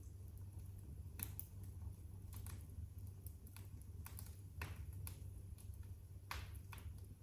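Wood fire crackling in a fireplace: about ten irregular sharp pops and snaps, some in quick pairs, over a steady low hum.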